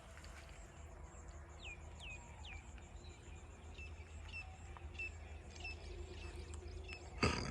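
Birds chirping outdoors: three quick falling chirps, then a run of short, repeated high notes about twice a second. A brief knock comes near the end.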